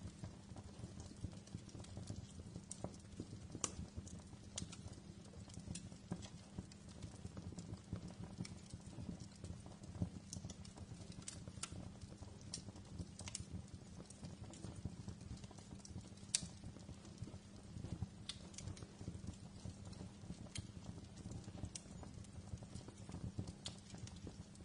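Wood fire crackling in a fireplace: a steady low rumble of burning with irregular sharp pops and snaps, a few of them louder than the rest.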